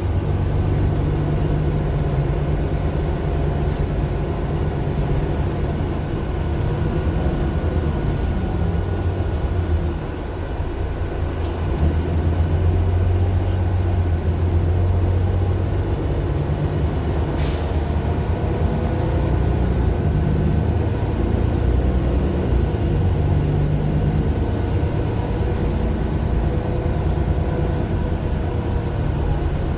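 Mercedes-Benz Citaro LE bus's OM 457 hLA six-cylinder diesel running steadily while the bus drives, with a steady thin whine above the engine drone. The level dips about ten seconds in and picks up again two seconds later, and there is one short click near the middle.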